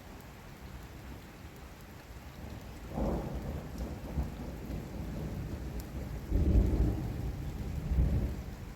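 Heavy rain falling steadily while thunder rolls in about three seconds in, a deep rumble that swells louder twice before dying away near the end.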